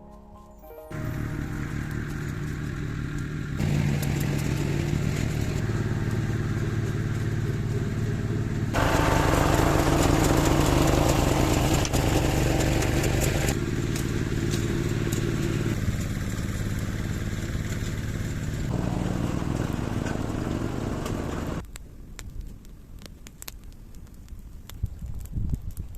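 An engine running steadily with a low pitched hum, its loudness jumping abruptly several times. It falls away shortly before the end, leaving faint scattered clicks.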